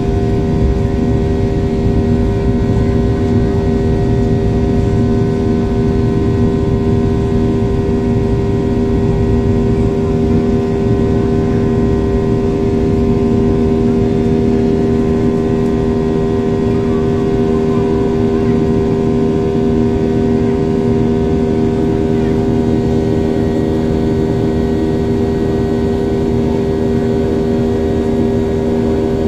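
Passenger jet engines heard from inside the cabin: a steady, loud drone with a constant deep hum that does not change in pitch or level.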